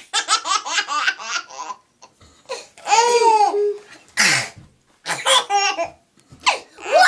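A baby laughing in runs of quick giggles, trading off with an adult's made-up silly vocal noises, including a rough falling burst about four seconds in.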